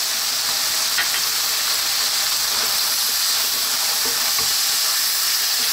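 Vegetables sizzling in freshly added sunflower oil in a hot nonstick wok, a steady frying hiss. A wooden spatula starts stirring them near the end.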